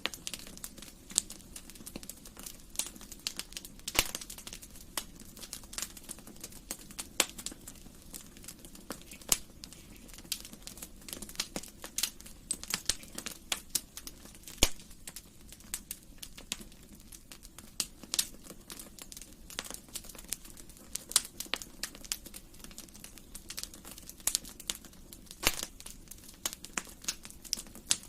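Wood fire crackling in a fireplace: many irregular sharp pops and snaps, several a second, over a low steady hiss of burning.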